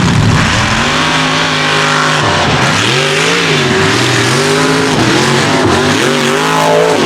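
Mega truck engine running hard at high revs, its pitch holding steady at first, then dipping and climbing several times as the throttle is worked.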